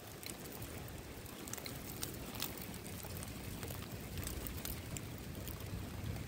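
Steady rain with scattered single drops striking close by, over a low steady rumble.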